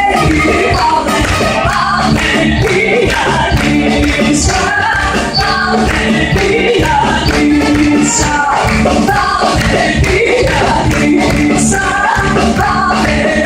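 Live band playing a song with singing.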